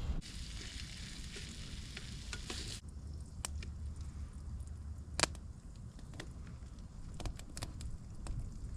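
Black pudding sizzling in a frying pan. The sizzle cuts off about three seconds in, leaving scattered sharp pops and crackles over a low wind rumble.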